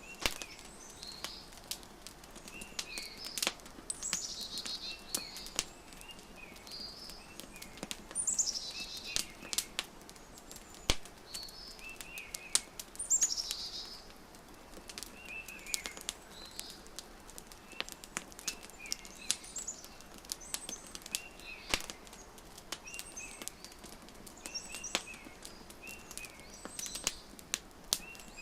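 Birds singing in repeated high falling trills and short chirps, over the scattered crackles and pops of a wood fire. The sharpest pops come about eleven and thirteen seconds in.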